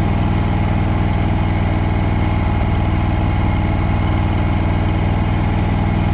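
Engine of a Hobart Champion Elite engine-driven welder/generator running steadily with no welding load on it.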